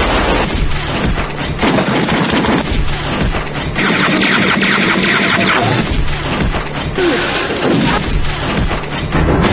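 Movie shootout: rapid gunfire and crashing impacts over a music score, with a denser, brighter burst of firing about four seconds in.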